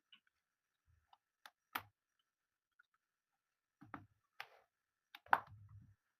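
A few scattered light knocks and taps of kitchen prep work on a cutting board as chicken fillets are cut and flattened, the loudest knock about five seconds in.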